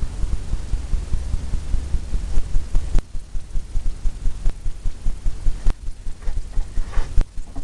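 Paintbrush tapping against a stretched canvas, giving rapid, rhythmic low thumps, with a few sharp clicks.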